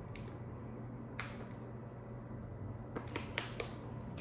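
Mouth clicks and lip smacks from close-miked eating: one about a second in, then four quick ones around three seconds in, over a steady low hum.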